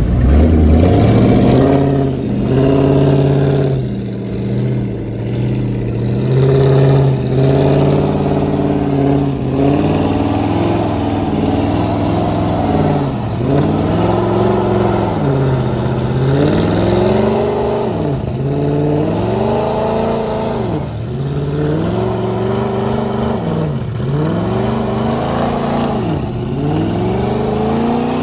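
A car engine is revved hard. It is held high for several seconds, then revved up and let fall again and again, about once every second and a half through the second half.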